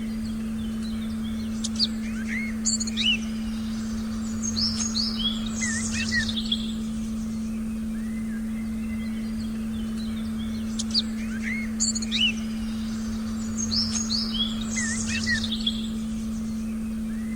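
Forest birdsong: spells of quick chirps and whistles, the same pattern coming round again about nine seconds later, over a steady low electronic tone that holds throughout.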